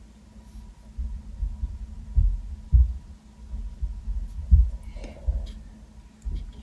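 Irregular muffled low thumps and knocks, a few of them stronger, like a painting work surface being bumped while working, over a steady low electrical hum. A few faint light clicks come near the end.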